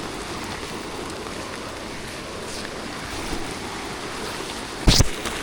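Steady rain hiss, with one brief loud thump near the end.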